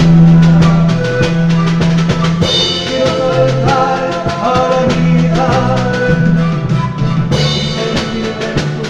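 Andean folk band playing an instrumental passage of a song: a steady drum beat under a bass line, with melody instruments above.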